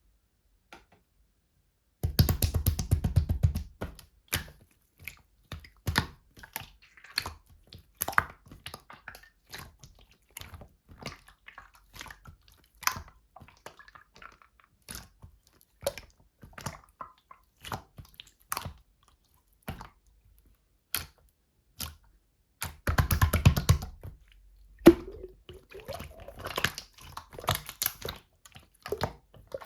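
Slime being squeezed and poked by hand: sticky squishing with a string of small clicks and air-bubble pops, with two quick runs of rapid crackling clicks, one a couple of seconds in and one near the end.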